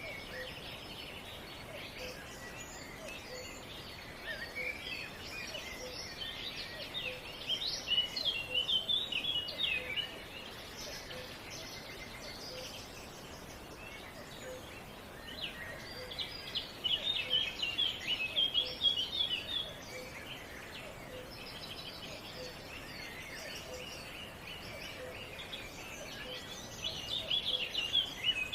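Songbirds singing in three stretches of rapid, high chirping and twittering, with quieter gaps between, over a steady outdoor hiss. A faint low pulse repeats about once a second underneath.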